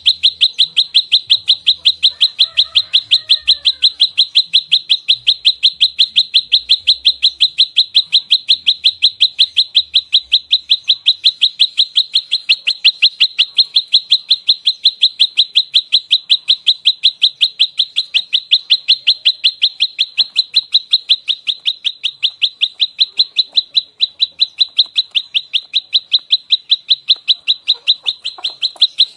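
Prenjak lumut bird in rapid-fire fighting song: one sharp, high chirp repeated without a break at about five notes a second. Faint lower bird calls sound briefly a couple of seconds in.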